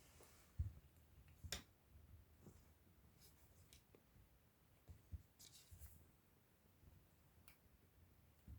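A Ragamuffin cat playing with a hair tie: a few faint soft thumps of paws and body landing, with scattered light taps and rustles as it bats at the tie.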